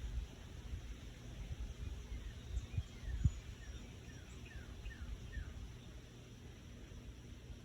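A bird calling: a quick series of short, falling whistled notes in the middle of the stretch, over a low rumbling background, with one sharp knock partway through.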